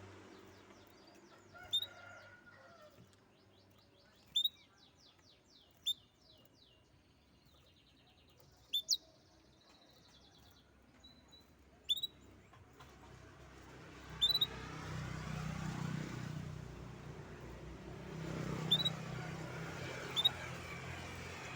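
A songbird calling with short, sharp chirps every second or two, and a fast run of rapid repeated notes about three to six seconds in. A low rumbling background noise grows louder about two-thirds of the way through.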